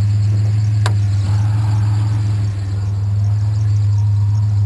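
Truck engine and road noise heard from inside the cab while driving: a steady low hum, with a single sharp click about a second in.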